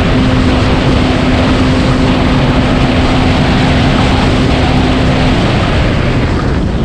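Yamaha FX SVHO personal watercraft's supercharged 1.8-litre four-cylinder engine running under way at steady speed, loud, with rushing water and wind. A steady tone in the engine note drops away about five seconds in.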